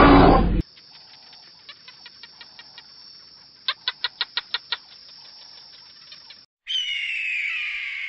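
A loud roar cuts off about half a second in. Then a faint background with a run of quick clicks, loudest as about eight sharp clicks near the middle. Near the end, a bird of prey's raspy screech falling in pitch, lasting over a second.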